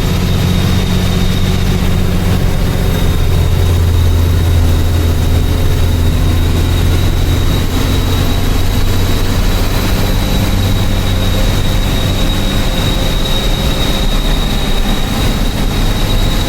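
Truck's diesel engine running steadily, a loud low drone, with a thin high whine held above it.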